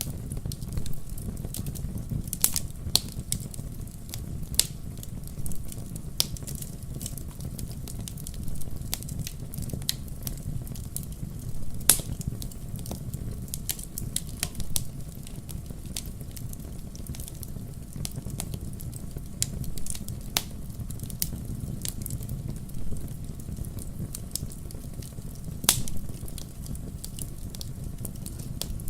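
Campfire crackling: irregular sharp pops and snaps over a low, steady rumble of the flames, with a few louder pops standing out.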